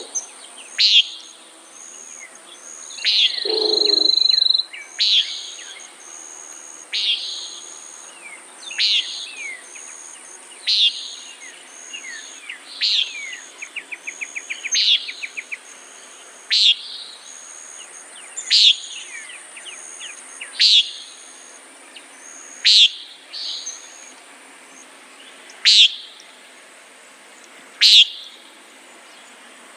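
Common nighthawk giving its short nasal peent call over and over, about once every two seconds.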